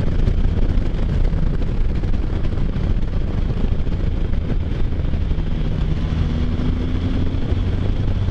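Wind rush and engine noise from a Can-Am Spyder F3 three-wheeler riding at road speed, with a steady low rumble. A faint engine note rises slightly a little past halfway.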